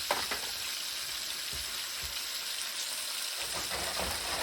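Food frying with a steady sizzle, with a few light knocks of cookware.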